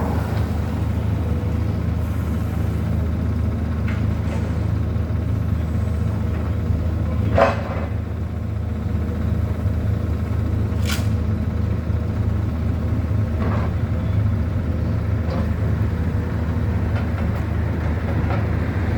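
A heavy diesel engine running steadily with a low rumble, with a few short knocks or clanks over it, the loudest about seven seconds in.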